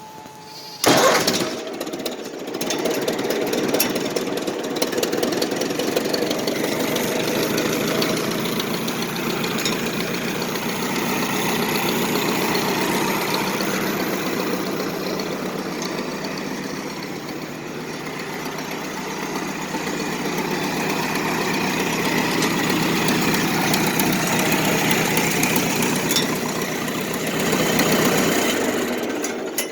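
Carbureted gasoline three-cylinder engine of a Ford 4000 backhoe loader starting about a second in, then running steadily before stopping abruptly near the end.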